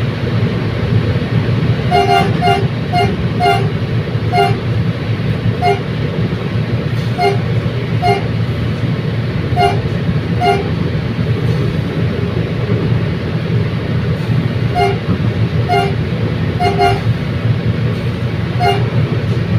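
Commuter train running along the track: a steady low rumble, with short high-pitched chirps coming at irregular intervals, about twenty in all.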